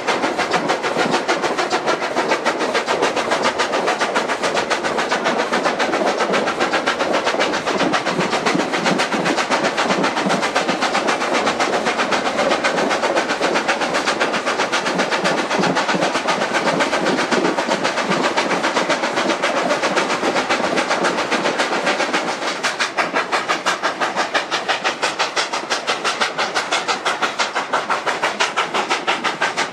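Narrow-gauge K-27 Mikado steam locomotive No. 463 working a train, its exhaust beating in a rapid, steady rhythm; the beats become more distinct near the end.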